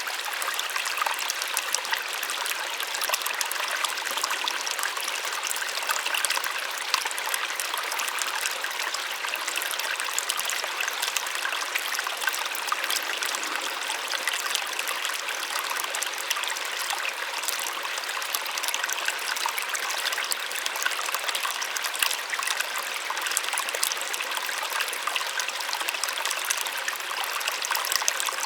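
Small waterfall splashing steadily: a continuous, even rush of falling water with fine trickling and splashing detail.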